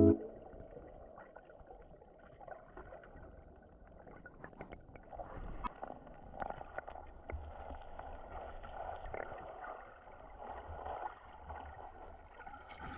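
Water in a mountain stream sloshing and gurgling, faint and uneven, with scattered small clicks and splashes.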